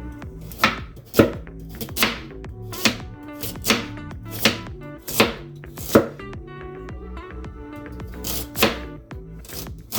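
A knife chopping a carrot, about ten separate chops spaced under a second apart, with a pause of a couple of seconds in the latter half.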